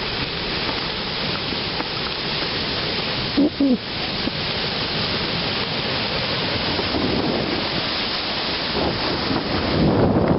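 Steady rushing wind noise on the microphone of a bicycle being ridden along a towpath, with a short pitched sound about three and a half seconds in.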